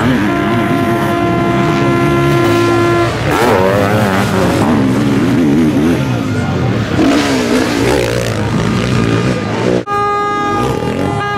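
Racing sidecar motocross outfits' engines revving up and down over the jumps. A steady held tone sounds for the first three seconds, and another after a sudden break near the end.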